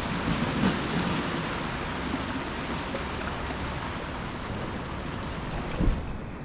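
Ocean surf washing on the shore in a steady rush, with one brief low thump just before the end.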